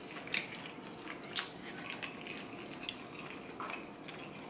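Quiet chewing of a mouthful of kalua pork, with a few light, scattered clicks of a metal fork.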